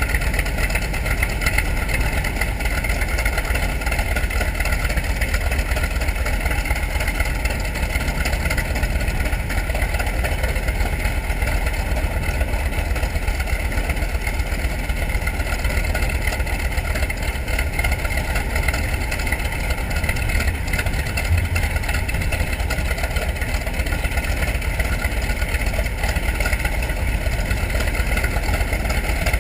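TBM Avenger's Wright R-2600 Cyclone 14-cylinder radial engine running steadily, with no change in speed.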